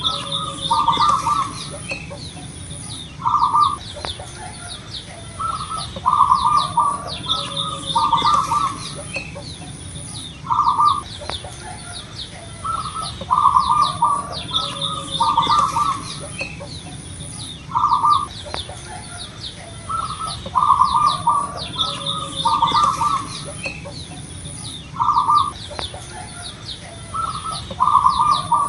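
Zebra dove (perkutut) cooing: short groups of two or three coo notes, repeating every two to three seconds, over the quick high chirping of other small birds and a faint pulsing high buzz.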